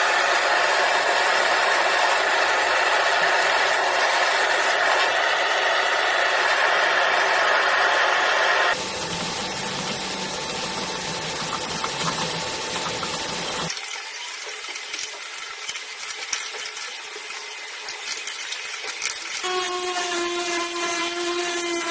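Power tool running in several clips cut together, changing abruptly about nine and fourteen seconds in. Near the end a steady pitched hum sets in.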